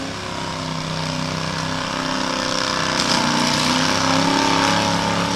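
Small tractor engine running steadily and getting louder, as in a garden-tractor pull.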